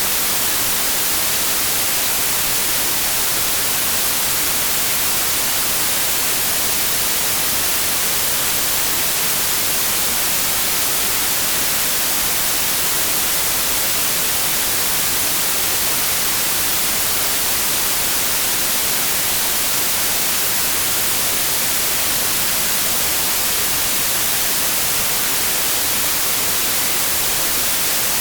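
Steady white noise: an even, bright hiss that never changes.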